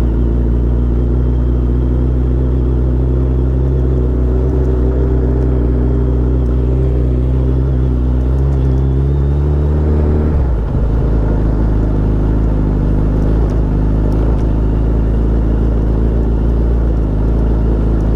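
Suzuki Hayabusa inline-four engine running under way with a steady low note. Its pitch creeps up a little, then drops suddenly about ten seconds in, like a gear change or the throttle being shut, and settles into a steady note again.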